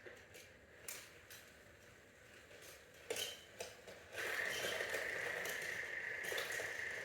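A few light clicks and knocks, then about four seconds in a small motor starts and runs steadily with a high whine and a rattle.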